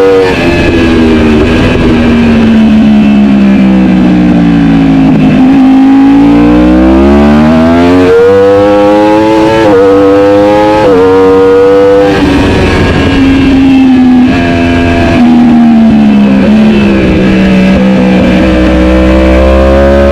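Racing superbike engine at full race pace: the revs sink as it slows, then climb through several quick gear changes about halfway through, then drop again and settle.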